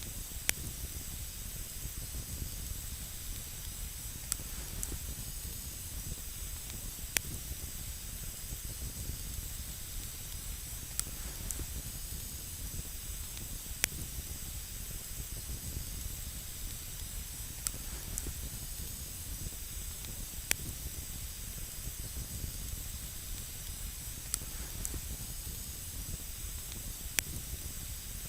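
Campfire of wood burning on snow: a steady hiss and low rumble of the flames, with sharp crackles and pops every second or few seconds.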